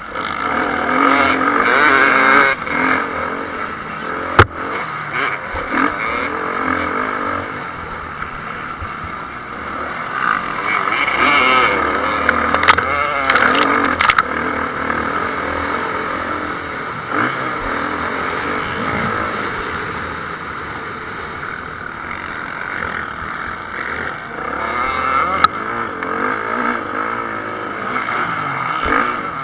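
Motocross bikes racing on the track, their engines revving up and down as riders work the throttle through the course. A sharp knock stands out about four seconds in, with a few more clicks near the middle.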